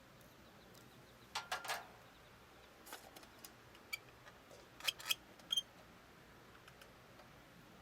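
Handling noises: a few sharp clicks and light clinks with a brief ring, as of small hard objects knocking together. They come in two clusters, one about a second and a half in and another about five seconds in.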